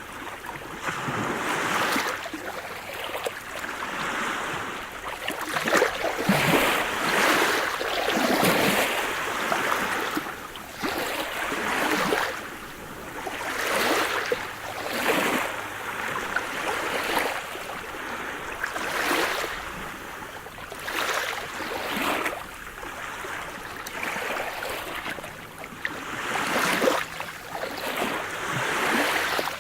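Sea surf: waves washing onto the shore in a steady hiss that swells and ebbs every second or two.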